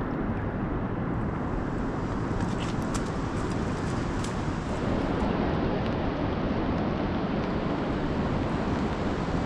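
Heavy rain falling steadily: an even rushing noise, with a few faint ticks of single drops about three to four seconds in.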